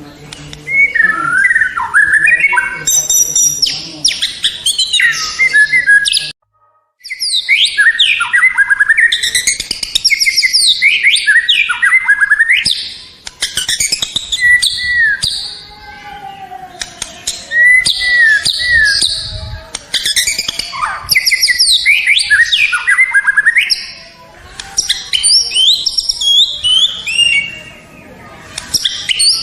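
White-rumped shama (murai batu) singing a loud, fast, varied song of whistles, slurred trills and chattering notes, delivered in bursts with short pauses; the sound cuts out completely for under a second about six seconds in.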